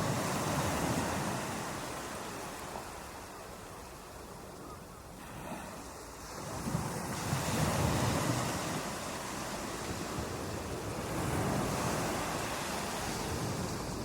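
Ocean waves breaking on a beach, the surf swelling and ebbing: a wave breaks near the start, a quieter lull follows, then further waves surge in about seven seconds in and again about eleven seconds in.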